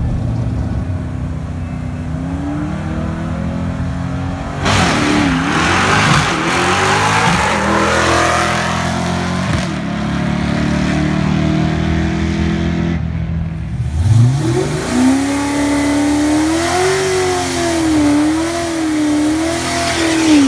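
Drag-racing car engines at the strip: a low idle, then about five seconds in a loud burst as an engine revs hard and its pitch sweeps up. About fourteen seconds in, another engine revs up sharply and holds a wavering high rev until the end.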